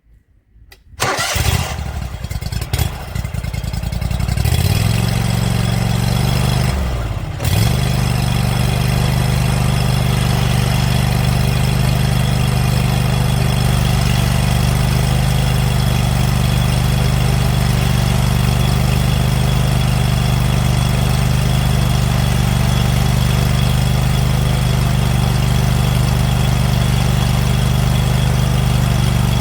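Scag Patriot zero-turn mower's engine cranking on the starter from about a second in and catching around four seconds in. It dips briefly near seven seconds, then runs steadily with the hydro drive in freewheel, as used to bleed air from the freshly refilled Hydro-Gear ZT-3100 wheel motors.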